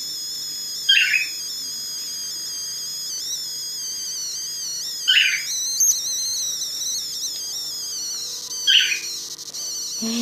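Pet parrots, a budgerigar and a cockatiel: a continuous high, wavering warble, broken by three short, sharp chirps about one, five and nine seconds in.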